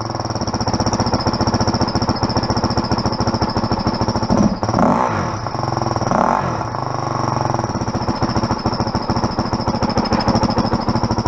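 Dirt bike engine running with a novelty turbo whistle held in its exhaust pipe: a steady high whistle over the fast beat of the exhaust. The throttle is blipped briefly twice around the middle.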